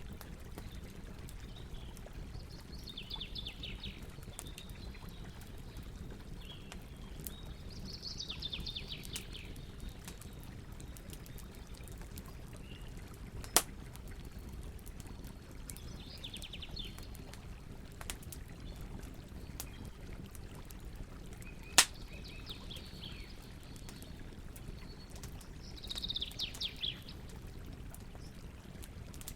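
Campfire burning with a steady low rush and light crackling, broken by two sharp pops, one about 13 seconds in and one about 22 seconds in. Birds call in short trills every few seconds.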